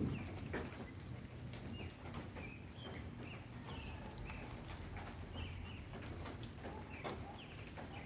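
Small birds chirping in short, repeated calls over a steady low city rumble.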